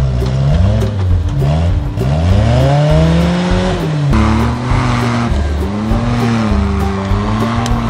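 Suzuki Jimny's small engine revving under load on an off-road climb. The revs rise and fall repeatedly, climb for about two seconds, then drop off sharply about four seconds in.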